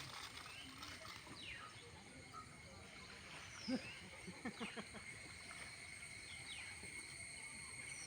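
Quiet outdoor ambience: a steady high-pitched insect drone, with a bird's short falling call repeating about every four seconds and a few faint brief sounds about halfway through.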